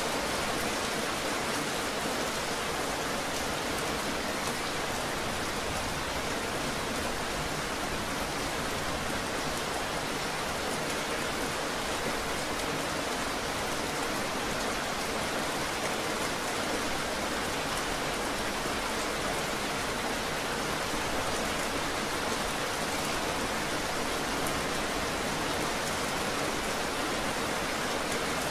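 Gentle rain falling steadily, an even, unbroken hiss that holds at the same level throughout.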